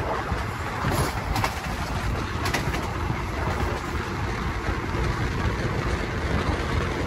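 Passenger train running at speed, heard from aboard a carriage: a steady rumble of wheels on rail with a rush of air, and a few short clicks about one and two and a half seconds in.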